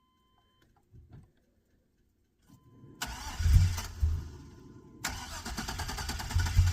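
LS-swapped Chevy OBS pickup's V8 being cranked and restarted after stalling in the snow. After a near-silent pause it fires with a low rumble about three seconds in, dips, then catches again about five seconds in with a rapid pulsing, getting louder toward the end.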